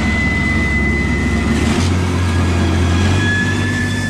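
Truck-mounted carpet cleaning machine running steadily, an engine hum with a high whine over it. The hum steps up in pitch a little under two seconds in as the engine speeds up.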